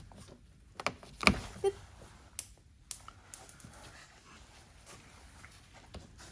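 Sharp plastic clicks and knocks as quarter-turn fasteners on an SUV's underbody panel are turned until they catch and go over center. The loudest click comes just over a second in, and quieter handling follows.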